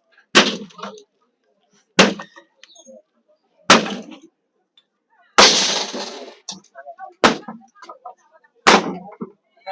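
Demolition of a roadside structure: heavy impacts land about every second and a half to two seconds, six in all, each with a short ring. About five seconds in comes a longer crash of breaking and falling debris.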